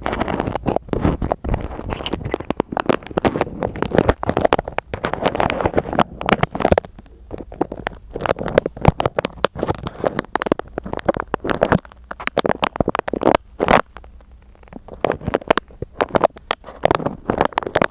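Close-miked ASMR scratching and tapping: dense, irregular crackly strokes and sharp clicks, easing off briefly about three-quarters of the way through.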